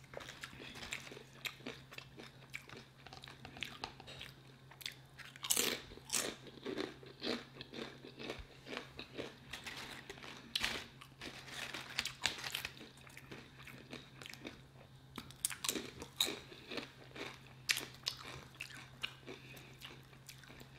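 Close-miked crunching and chewing of tortilla chips: irregular sharp crunches and mouth sounds throughout, over a faint steady low hum.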